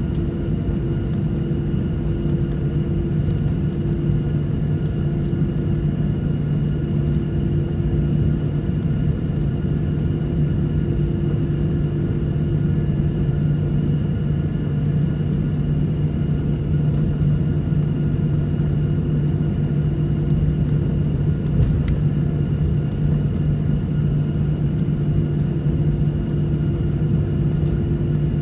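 Airliner cabin noise in flight: the engines and rushing air make a steady drone, with a few constant hums on top.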